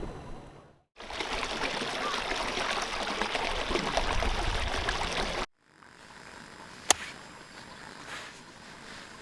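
Running water for about four and a half seconds, cut off abruptly, followed by a quieter stretch with a single sharp click about seven seconds in.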